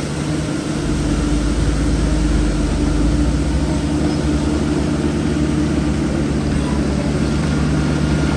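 Heavy diesel engine of earthmoving machinery running steadily, growing a little louder about a second in.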